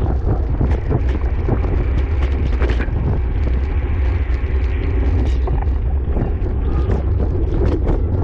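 Wind buffeting a bike rider's action-camera microphone at racing speed: a steady, loud low rumble with many scattered clicks and rattles.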